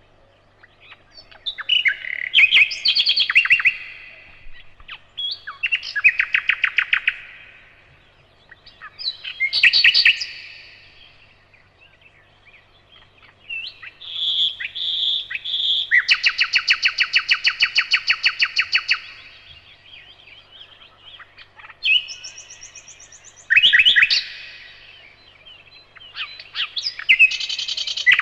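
Nightingale singing in separate phrases, each a burst of rapid repeated notes, with short pauses between. About halfway through, three slow, clear notes lead into a long, fast, rattling trill.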